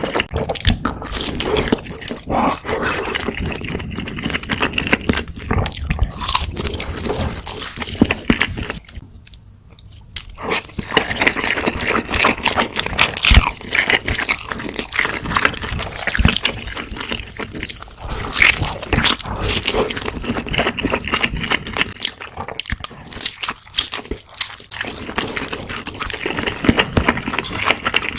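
Close-miked eating sounds: irregular crunching bites and wet chewing, with a brief pause about nine seconds in.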